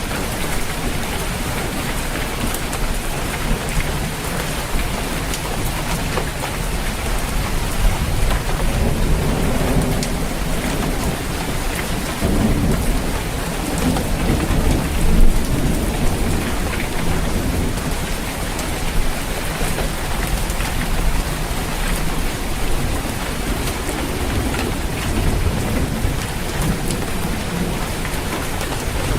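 Steady rain falling on a roof, with thunder rumbling low underneath and swelling briefly about halfway through.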